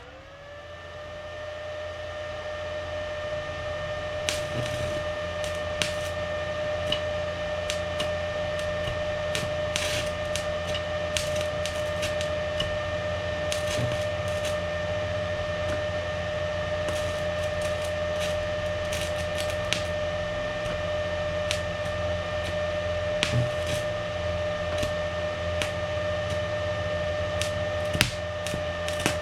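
A small electric motor spins up and then runs steadily as a pitched whine over a low hum, with scattered sharp clicks and crackles throughout.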